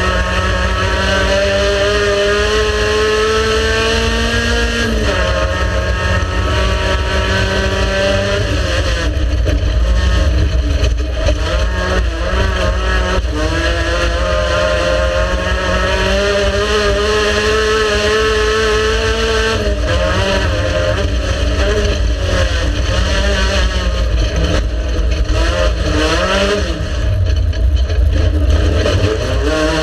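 Race car engine running hard and continuously, its pitch climbing and sagging with the throttle. It drops sharply about five seconds in and again about twenty seconds in, then wavers near the end.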